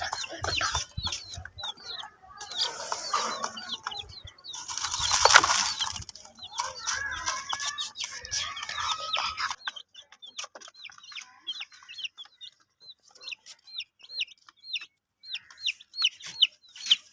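Baby chicks peeping in a steady stream of short, high, falling chirps, with a hen clucking in the first half. There is scuffling noise in the first half, loudest about five seconds in.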